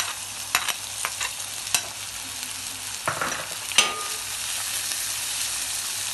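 Chopped onions sizzling in hot coconut oil in an uruli, with a spoon clicking and scraping against the pan as they are stirred. One sharper knock about four seconds in leaves the pan ringing briefly.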